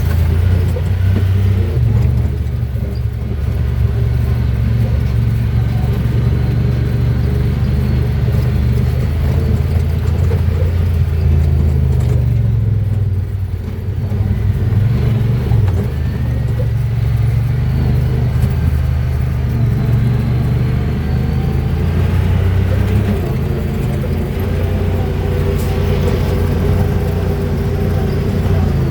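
Side-by-side UTV engine, a Honda Pioneer 1000-5, running steadily under changing throttle on a trail, its pitch dropping and picking up again several times.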